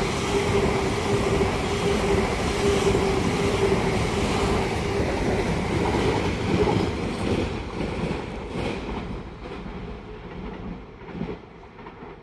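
A train running past on the main line, loud at first with a steady whine, then fading away over the second half. A few sharp clacks from the wheels sound near the end as it recedes.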